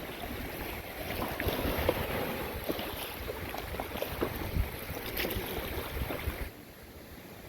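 Wind buffeting the microphone over water sounds, with scattered small knocks. The sound drops to a quieter background about six and a half seconds in.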